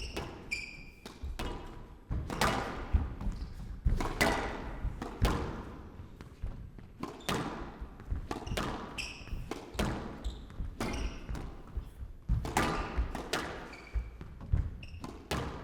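Squash rally: the ball cracks off the rackets and the court walls about once a second, with short squeaks of players' shoes on the court floor in between.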